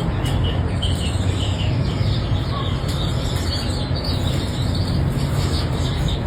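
Gouldian finches giving short, soft chirps over a steady low rumbling background noise.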